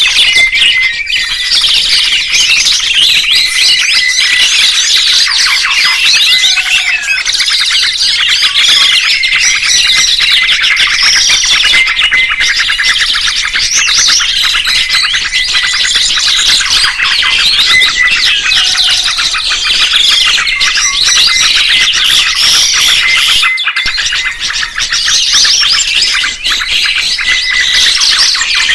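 A dense chorus of songbirds chirping and twittering nonstop, many rapid high chirps and trills overlapping. This is a 'masteran' recording of the kind used to train pet songbirds.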